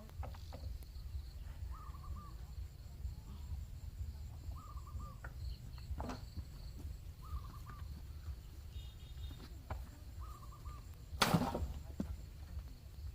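A bird's short call, repeated about every three seconds, over a steady low rumble, with scattered clicks and one loud sharp knock near the end.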